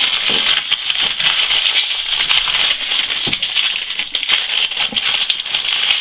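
Crinkling and rustling of a Hot Wheels mystery-pack wrapper being handled and picked at while someone struggles to open it, a steady crackle with many small crackling clicks.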